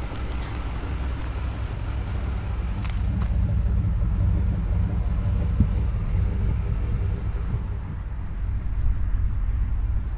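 1992 GMC K1500's 5.7-litre 350 V8 idling, a steady low exhaust rumble through what sounds like a Flowmaster muffler.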